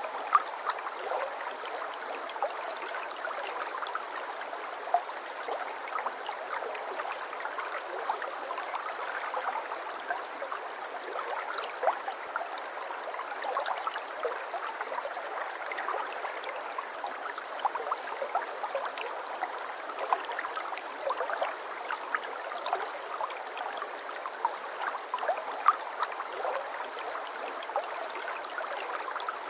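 A shallow brook babbling steadily, with many small gurgles and splashes over an even rush of water.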